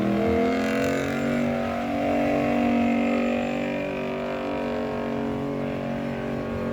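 A pulling truck's engine held at high revs under heavy load as it drags the weight sled down the track; the pitch climbs, then holds steady, and the sound eases a little lower and quieter over the last few seconds.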